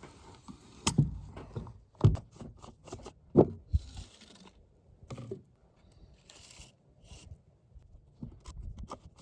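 Handling of a grease gun and its grease tube as the empty tube is dealt with: scattered clicks, taps and scrapes of metal and plastic parts, with a couple of short hisses.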